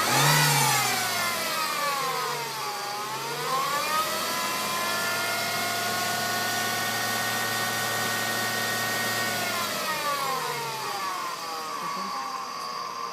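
Whining from a Mercedes-Benz W210 E-Class transmission as the car runs: the whine falls in pitch, rises and holds steady for several seconds, then falls again near the end, with the engine running underneath.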